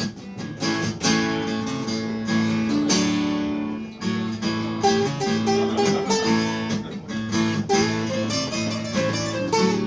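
Acoustic guitar played live, strummed chords with single notes picked between them, as an instrumental passage of a pop-rock song.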